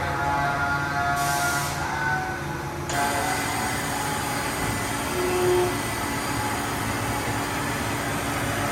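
Haas VF-7/50 CNC vertical machining center running under power: a steady mechanical hum with several held whining tones. A broad hiss joins about three seconds in and carries on.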